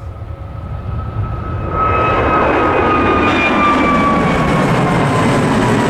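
Airbus A321neo's twin turbofan engines at takeoff power, growing louder over the first couple of seconds and then staying loud and steady. A whining tone slowly falls in pitch as the jet passes.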